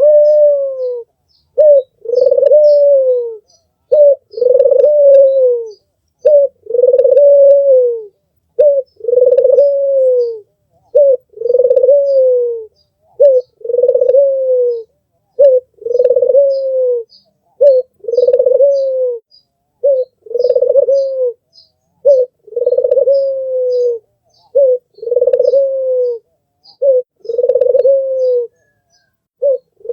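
Albino puter (ringneck dove) cooing over and over: each call a short note followed by a longer, falling coo, about one every two seconds. Faint small-bird chirps sound high above it.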